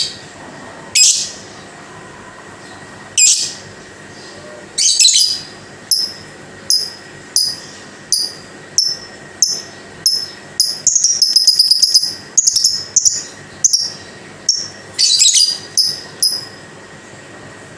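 Lovebird calling in a series of sharp, high chirps: spaced about a second apart at first, then speeding up into a fast chattering run in the middle, then slowing again and stopping shortly before the end.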